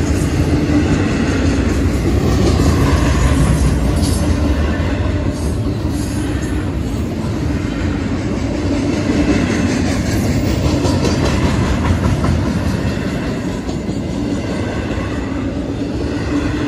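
Double-stack intermodal well cars rolling past on the rails: a steady rumble and clatter of freight-car wheels on track, with a few sharp clanks a few seconds in.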